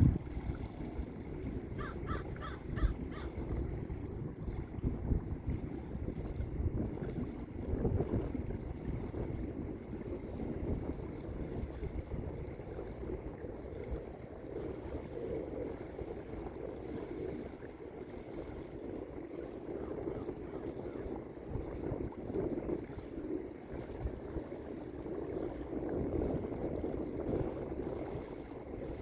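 Small lake waves washing onto a beach in a steady, swelling hush. About two seconds in there is a short run of a few pitched calls.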